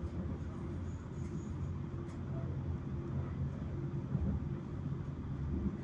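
Auckland electric commuter train running between stations, heard inside the carriage: a steady low rumble of wheels on track with a constant low hum.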